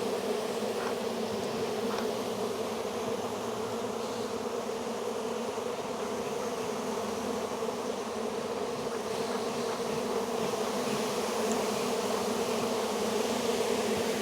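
Dense, steady buzzing hum of a great many honey bees from an open, heavily populated hive.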